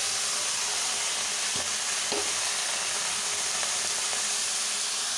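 Freshly washed shredded cabbage sizzling in hot oil in a kadai: a loud, steady frying hiss.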